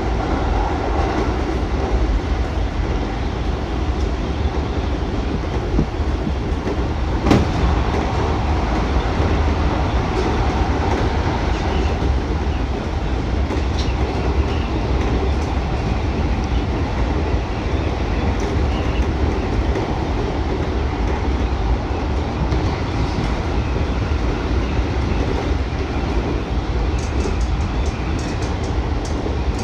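Musashino Line electric commuter train running between stations, heard from inside the car: a steady low rumble of wheels and running gear. There is one sharp click about seven seconds in and a run of faint ticks near the end.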